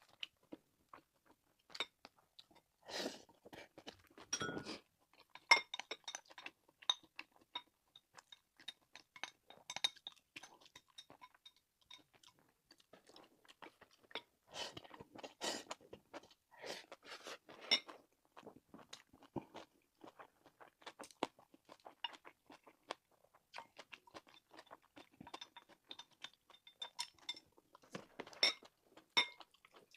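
A person chewing and biting food close to the microphone: an irregular run of small clicks and crackles, with louder bites now and then.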